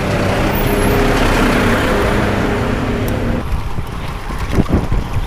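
Road traffic with a vehicle's engine droning steadily close by, over street noise; the drone stops about three and a half seconds in, leaving wind buffeting the microphone, which has no windscreen.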